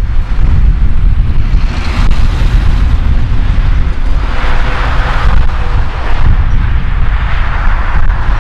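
Airbus A330 jet engines at takeoff thrust: a loud, continuous rumbling roar with a crackling edge, swelling about halfway through.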